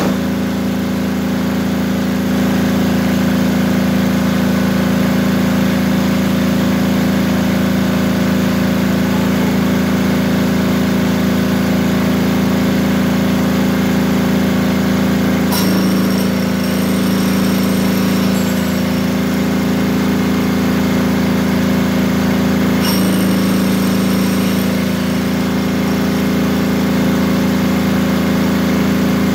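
Wen D6000 diesel generator's single-cylinder air-cooled engine, just started after repair, running steadily with its exhaust removed. There is a slight change in the sound about halfway through and again near the end.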